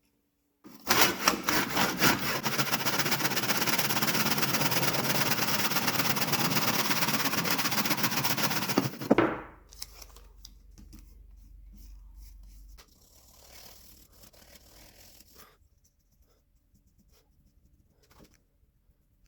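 A power tool runs loudly with a fast rattle for about eight seconds, then is switched off, leaving a low hum that stops a few seconds later.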